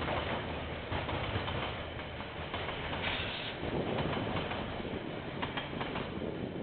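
KiwiRail train passing, heard through a security camera's microphone: a steady rumble of rolling stock, with a low drone that fades after about two and a half seconds and scattered sharp clicks.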